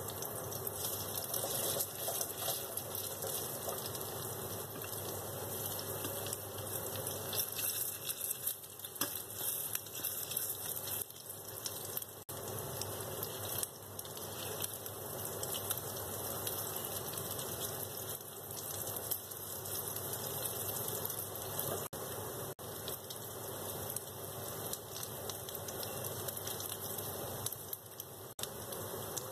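Minced-beef fritters sizzling in hot oil in a stainless steel frying pan: a steady crackling hiss that carries on as they are turned with a spatula.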